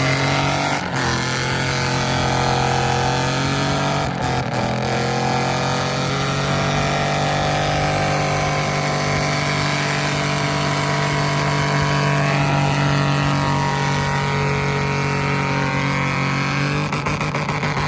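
Pickup truck engine floored in first gear and held in one spot, running at a steady high rev. The pitch sags slightly at first, holds, then climbs and turns ragged near the end.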